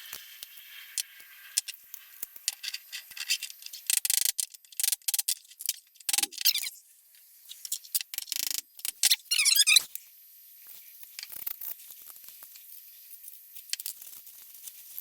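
Small steel wrench parts being worked by hand: irregular clinks and short high scraping strokes, busiest in the middle, as burrs are cleaned off the metal.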